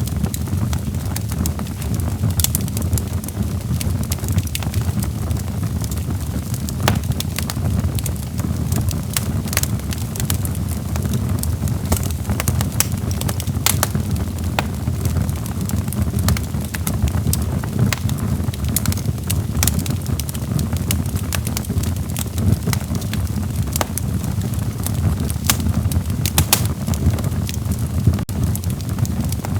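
Log fire burning in a fireplace: a steady low rumble of flames with frequent irregular sharp crackles and pops from the burning wood.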